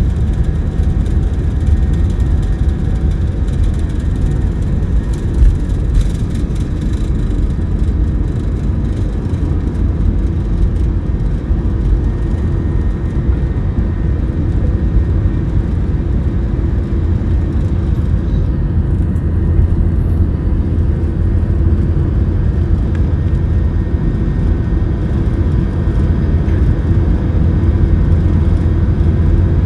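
Jet airliner engines during a takeoff: a loud, steady low rumble.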